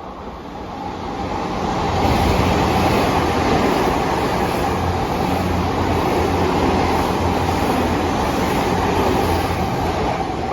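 Odakyu limited express electric train passing, its sound growing over the first two seconds, then holding steady as the cars go by and easing slightly near the end.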